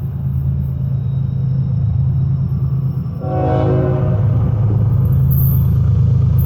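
CSX GE ET44AH diesel locomotive approaching with its engine giving a steady low rumble. Its horn, silent at first, sounds again about halfway through and is held.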